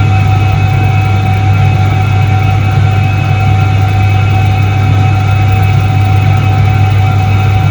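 1978 Soviet Iset-3 washing machine running, its electric motor giving a loud, steady deep hum with a constant higher whine over it.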